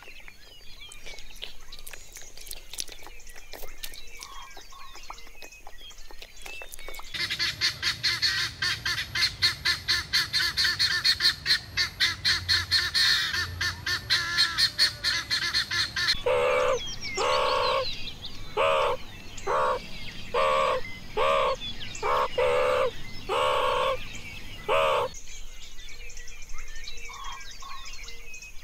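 Helmeted guineafowl calling: a fast rattling chatter that runs for several seconds, then about a dozen loud, harsh calls in quick succession. Before and after them, quieter outdoor ambience with faint bird chirps.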